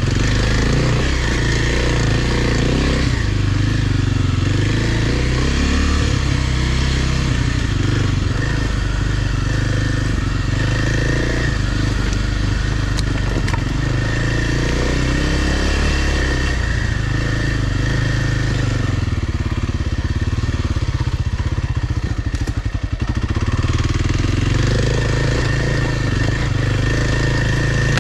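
Kawasaki dirt bike engine running hard on a trail, its pitch rising and falling with the throttle. About 22 seconds in it briefly drops to a lower, slower note as the throttle is rolled off, then picks up again.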